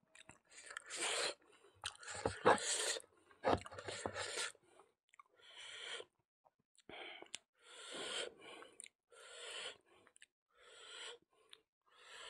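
Close-miked mouth sounds of a person eating pork and rice by hand: wet chewing, biting and mouth clicks in the first few seconds, then a run of short noisy chewing and breathing sounds about once a second.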